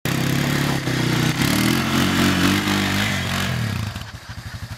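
Honda ATV engine revving, its pitch rising then falling, then dropping to a quieter, evenly pulsing idle near the end.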